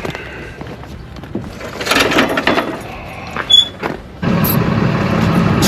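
Clunks and rustling with a brief high squeal, then about four seconds in a truck engine is suddenly heard running steadily with a low drone.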